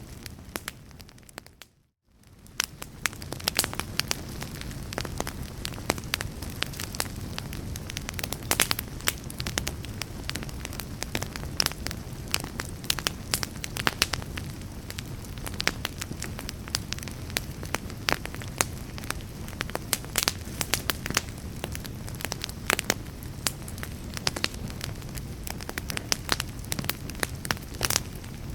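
Wood fire in a fireplace crackling and popping, many sharp snaps over a steady low rumble. About two seconds in the sound briefly fades almost to nothing and then comes back.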